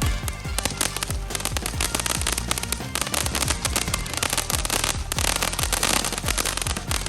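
Fireworks going off in a dense run of rapid pops and crackles, with music playing underneath.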